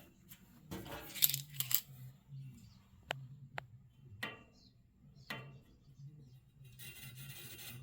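Light metallic clicks and clinks, about half a dozen separate sharp taps, a couple of them ringing briefly, as steel angle iron and tools are handled, over a faint steady low hum.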